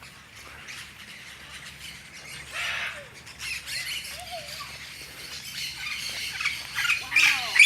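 Birds squawking: harsh calls with gliding pitch, a few scattered at first, then coming louder and closer together toward the end.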